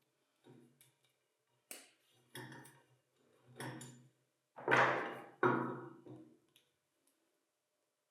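Metal parts of a concrete vibrator being handled and fitted together: a series of light knocks and clinks with brief ringing, the two loudest about five seconds in.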